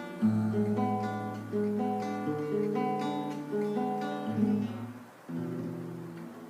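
Acoustic guitar playing an instrumental passage with no singing, its chords and bass notes changing about once a second, with a brief drop in loudness a little after halfway.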